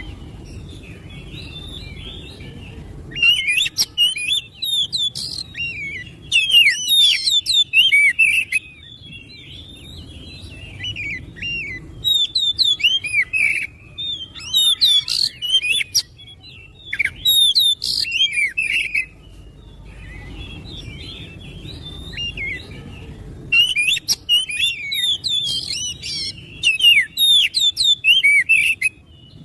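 Oriental magpie-robin (kacer) singing: loud bursts of rapid, varied whistled phrases, with softer twittering between them.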